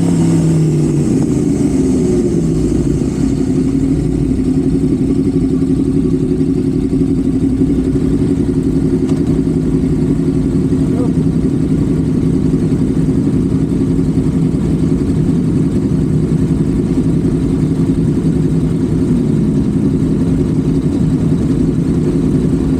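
Honda Civic FD's engine running at a steady highway cruise, with road and wind noise; its pitch dips and then climbs again in the first few seconds before holding steady.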